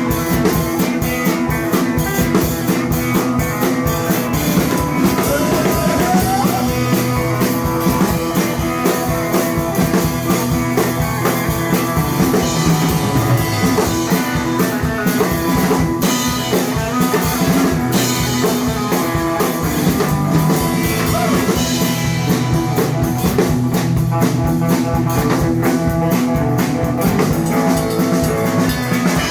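Live blues band playing an instrumental break: electric guitar over drum kit and bass, with a bent note rising about five seconds in.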